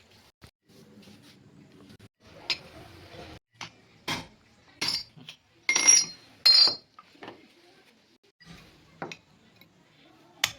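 Metal tools and parts clinking and tapping together, about ten irregular sharp strikes, some with a brief high ring.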